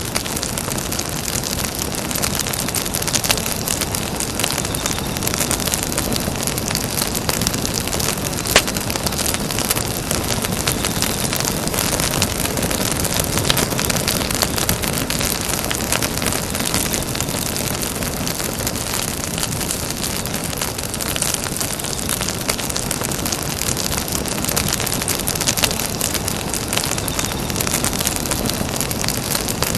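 Campfire burning with a steady crackle and hiss, full of small snapping pops, and one sharper pop about eight and a half seconds in.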